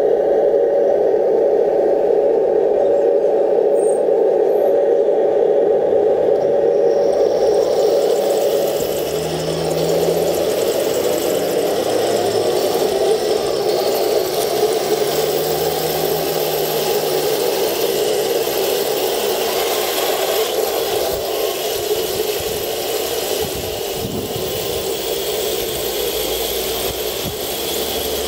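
RC Leopard tank running: a steady mechanical drone, joined about seven seconds in by a louder, hissy rattling whir that carries on.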